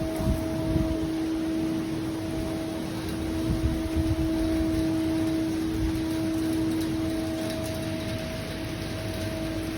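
Steady hiss with a constant low hum running through it, and irregular low rumbles of wind on the microphone.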